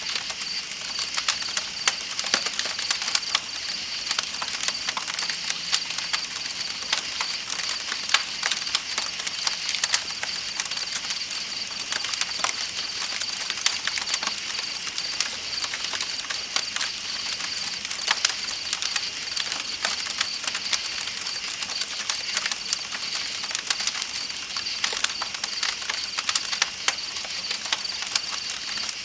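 Campfire crackling with frequent sharp, irregular pops, over a steady high trill of night insects and the hiss of flowing river water.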